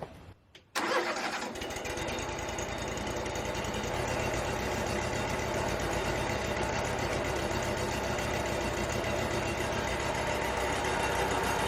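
Wood-Mizer LT35 portable sawmill running, its engine and band saw going steadily; the sound starts suddenly just under a second in and gets a little louder from about four seconds in.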